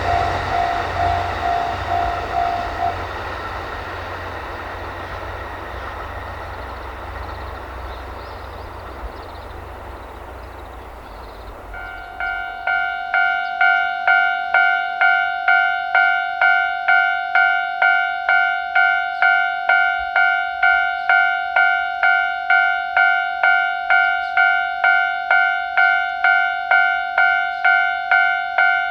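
Train running past and fading away over about ten seconds. About twelve seconds in, a Japanese railway level crossing alarm starts ringing in an even, repeating clang, nearly twice a second.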